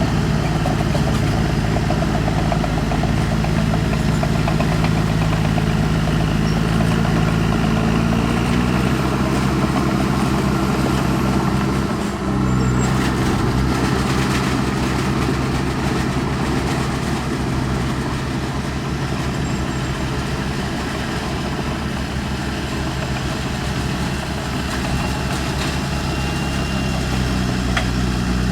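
Heavy diesel engine of earthmoving equipment running steadily. Its note drops about eight seconds in, stays lower, and rises a little again near the end.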